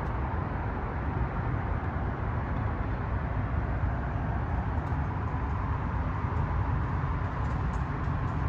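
Engine running steadily, heard close up in the engine compartment.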